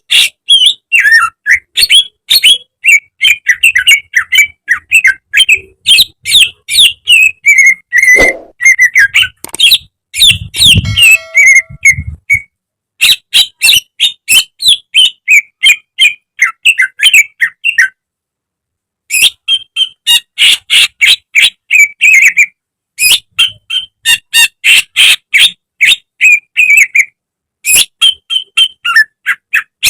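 Cucak ijo (greater green leafbird) singing a fast, loud stream of chattering, sweeping notes with short pauses, going silent for about a second around eighteen seconds in.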